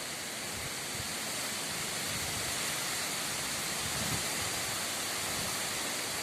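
Very strong wind rushing through trees, a steady hiss.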